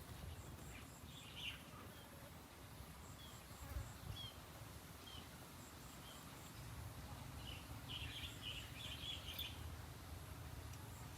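Faint outdoor ambience with a low steady rumble, over which small birds give short high chirps: a few scattered calls, then a quick cluster of chirps near the end.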